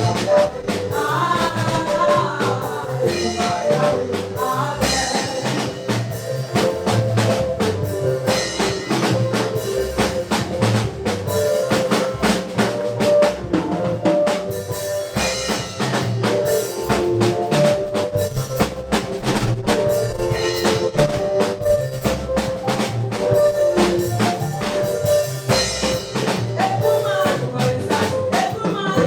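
Live church praise band playing an upbeat number, a drum kit keeping a steady beat over bass and melody.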